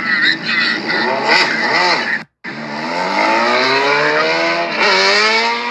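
Suzuki GSX-R sport bike engine revving, then accelerating hard with its pitch climbing steadily. The pitch dips sharply at an upshift near the end, then climbs again. The sound cuts out completely for a moment just after two seconds in.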